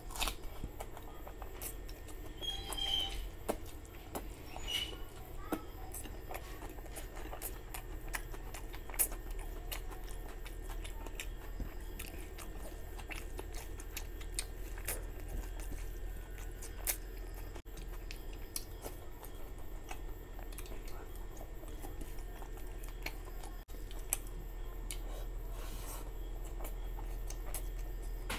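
Close-miked chewing of a mouthful of rice and curry eaten by hand, with many small mouth clicks, and fingers mixing rice on a plate.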